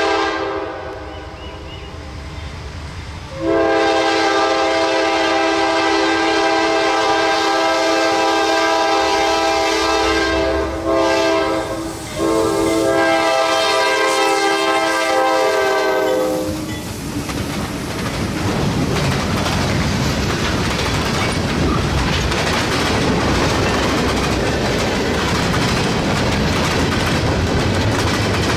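Diesel freight locomotives' multi-tone air horn sounds in long blasts as the engines pass close by, with brief breaks, and stops about 17 seconds in. Then the freight cars roll past in a steady rumble and clatter of wheels on rail.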